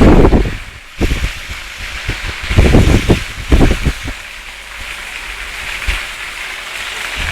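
Strong gusty wind buffeting the microphone in repeated rumbling blasts, over a steady rushing noise of wind and surf.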